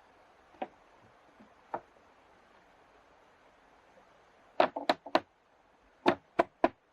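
Wooden mallet striking timber as a plank door is knocked together. Two light taps come first, then after a pause a quick run of sharp knocks: about four in half a second, then three more a few tenths of a second apart.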